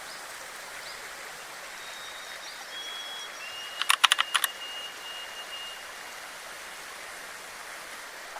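Steady hiss of a flowing forest stream, with a few thin, high, steady whistles and a quick run of about six sharp clicks about four seconds in.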